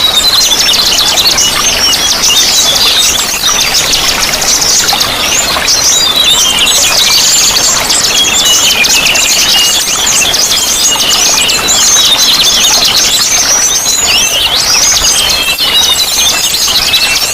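Small songbirds chirping and twittering densely together in rapid, high trills without a break, over a faint steady rush of running water.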